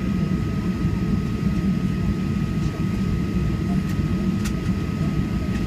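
Steady cabin noise inside a Boeing 737-800: an even engine and airflow rumble with a thin, steady whine above it from its CFM56 engines.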